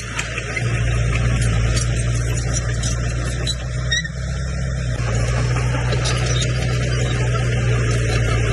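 Komatsu bulldozer's diesel engine running steadily under load, growing louder about a second in and easing briefly around the middle, with light metallic clicks over the drone.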